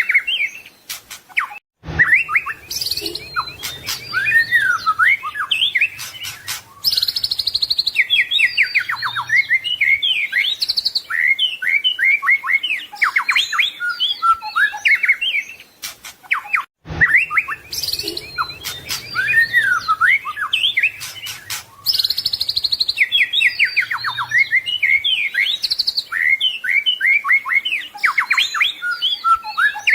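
White-rumped shama (murai batu) singing a continuous, rapidly varied song of whistles, chirps and trills. It is a recording of about 15 seconds played on a loop, with a short silent break where it restarts about two seconds in and again about halfway through.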